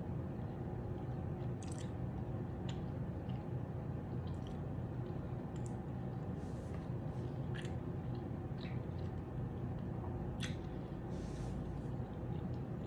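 A person chewing a mouthful of pasta with chicken and broccoli slowly and at length, with scattered small wet mouth clicks and squishes over a steady low hum.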